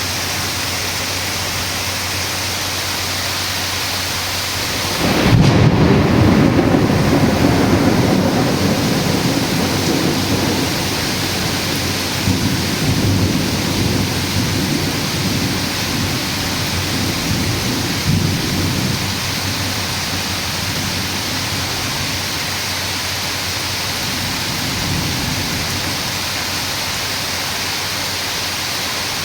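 Steady heavy rain, with a thunderclap about five seconds in that rumbles on and slowly dies away over the next fifteen seconds or so, swelling briefly once more partway through.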